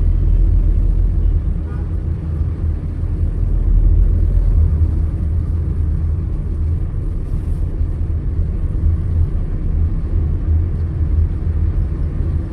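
Steady low rumble of a car driving through city traffic: road and engine noise.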